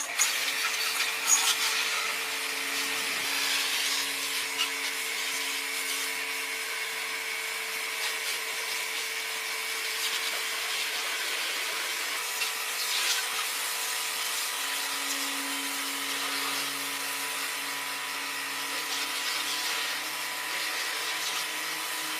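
A power tool running steadily: a broad hiss over a few steady hum tones, starting abruptly.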